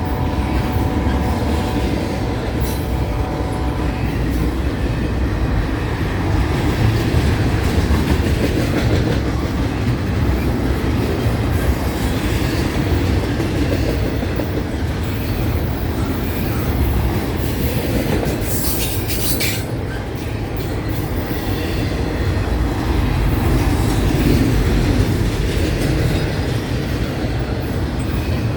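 CN freight train cars rolling past: a steady rumble of steel wheels on rail with clickety-clack over the joints. A steady ringing tone fades out about four seconds in, and a brief high screech comes about two-thirds of the way through.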